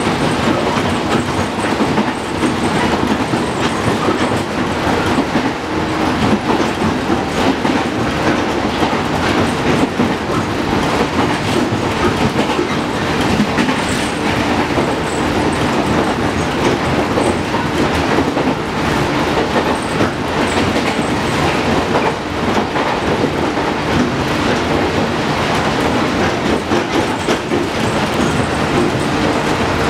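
JR Kyushu 415 series electric multiple unit running at speed, heard from inside the passenger car: a steady, loud rumble of wheels on rails and running gear, with wheels clicking over rail joints.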